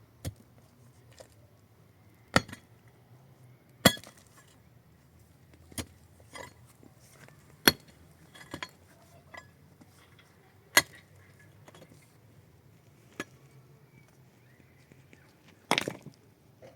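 Hard objects knocking and clinking: about a dozen sharp, separate strikes at irregular intervals, the loudest about four seconds in, with a quick cluster near the end.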